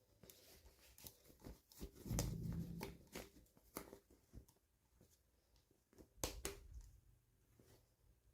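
Faint clicks and rustling from toy packaging being handled and opened, with a busier stretch of rustling about two seconds in and a couple of sharper clicks about six seconds in.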